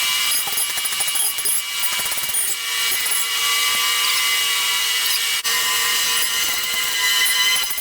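A power tool running steadily with a high-pitched whine and hiss, briefly dipping about five and a half seconds in.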